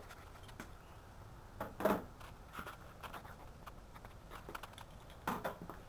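Faint room tone with a few brief scraping and handling noises, the clearest about two seconds in and another near the end.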